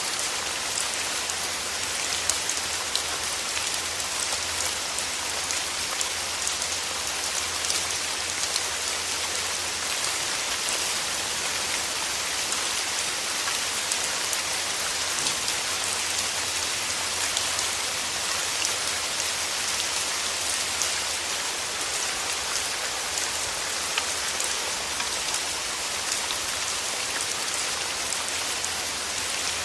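Steady rain falling, with many close individual drops ticking over an even hiss.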